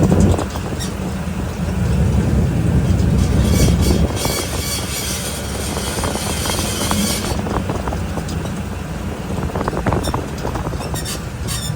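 Tyre and road rumble heard from inside the rear wheel well of a 2022 Ford F-150 PowerBoost on the move, with metallic grinding and scraping coming and going above it, loudest around the middle and again near the end: the sign of a rear axle bolt broken free and loose at the axle.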